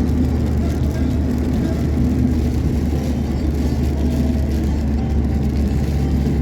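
Steady low rumble of a car driving along a highway: engine and tyre noise, even throughout.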